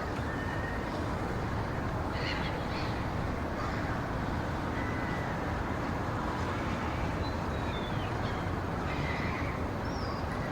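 Steady low rushing noise of a forest soundscape. Over it come a few brief, high bird calls, one sliding down in pitch about seven seconds in.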